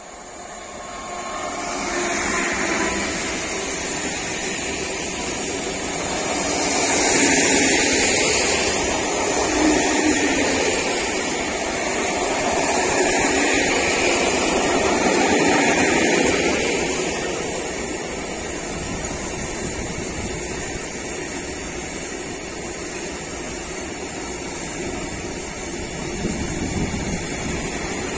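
Freight train of tank wagons passing close by. The locomotive's noise swells over the first couple of seconds, then comes the steady rumble of the tank wagons' wheels on the rails, loudest through the middle and easing slightly later on.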